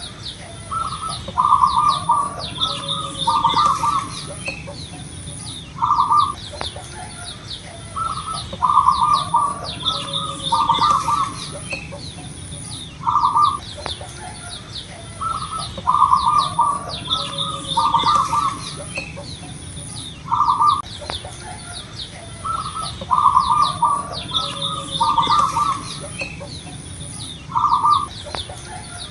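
Zebra dove (perkutut) cooing its song in repeated phrases of a few low, rounded coos, a new phrase every few seconds, a loud-voiced bird. Behind it are quick chirps from smaller birds and a high, pulsing buzz.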